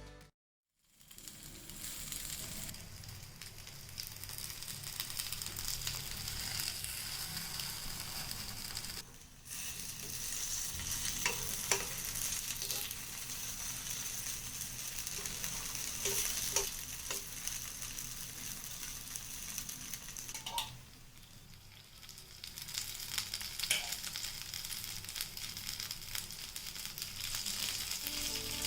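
Potato and green pea kababs shallow-frying in hot oil: a steady sizzle with occasional sharp pops, briefly cut off twice.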